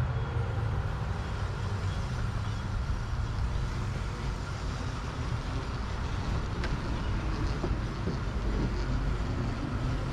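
Steady wind and road rush while riding a Zero DSR/X electric motorcycle, heard as a low rumble on the microphone with no engine note.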